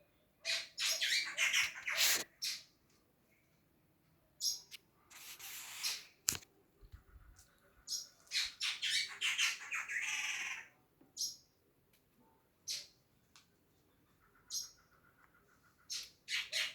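An unidentified bird calling in repeated harsh, scratchy bouts of about one to two seconds, with short pauses between them.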